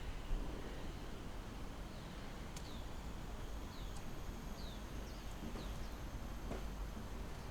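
Birds chirping: about five short, falling calls spaced roughly a second apart, over a steady low rumble.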